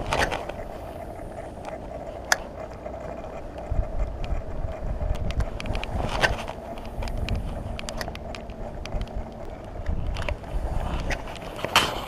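Rain tapping on the camera housing in scattered sharp ticks, over a steady hiss and a low wind rumble on the microphone that grows heavier after a few seconds.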